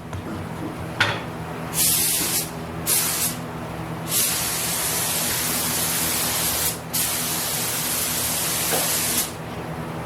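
Automotive paint spray gun hissing as it lays paint on the truck body: two short trigger pulls, then two long passes of a few seconds each. A steady low hum runs underneath.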